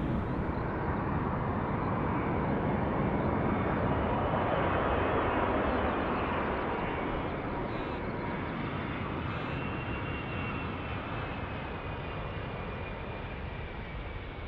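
Jet airliner engines: a steady rumble that slowly fades as the aircraft moves away, with a faint high turbine whine coming through in the second half.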